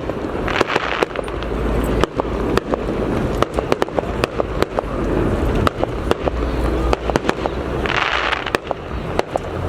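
Fireworks going off: many sharp, irregular bangs and crackles in quick succession over a low rumble, with a short hissing burst about eight seconds in.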